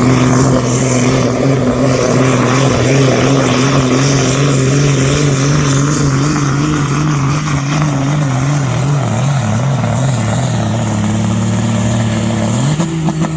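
Turbocharged diesel pulling tractor's engine running flat out under load as it drags the weight sledge down the track: a steady deep drone that wavers in pitch in the second half and rises briefly near the end.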